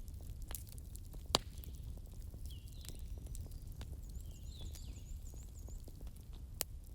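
Wood campfire crackling with scattered sharp snaps, and a loud pop about a second in and another near the end. Birds chirp in the background.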